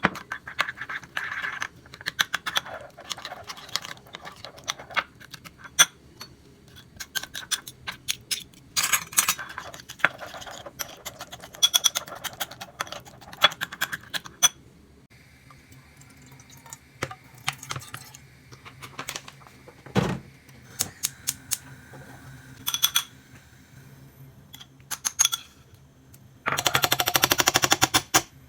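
Kitchen work sounds: utensils and dishes clicking and knocking at irregular intervals over a low steady hum, with a burst of rapid knocks near the end.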